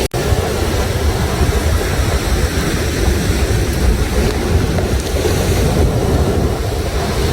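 Sea waves surging and breaking in a steady, dense rush with a deep rumble underneath. The sound cuts out for an instant just after the start.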